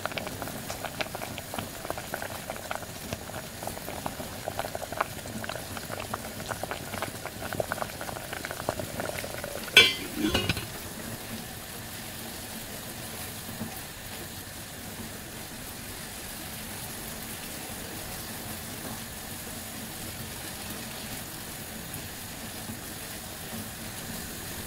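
Milk broth with radish and beef bubbling in a frying pan, dense with small pops and crackles for about the first ten seconds. About ten seconds in a spatula knocks sharply against the pan and stirs, and after that the simmer goes on as a steadier, quieter hiss.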